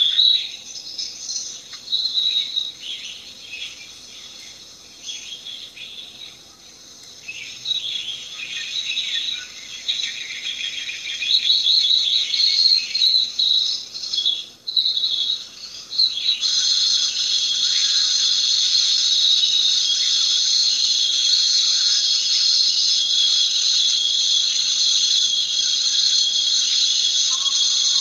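Insects chirping, with a high, uneven chatter of calls at first. About 16 seconds in it changes abruptly to a steady, dense cricket-like chorus.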